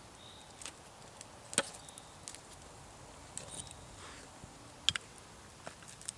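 Blade chopping into wood: sharp knocks at an uneven pace, two loud strikes about three seconds apart with lighter taps between.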